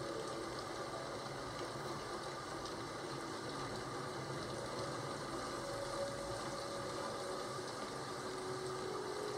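Steady rainstorm ambience: an even hiss of rain with a low rumble underneath.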